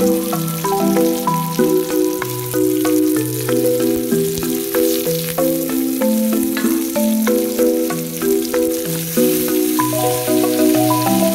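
Background music of sustained, changing notes over onion, dried red chillies and garlic sizzling in oil in a wok. A wooden spatula stirs with light scrapes and clicks.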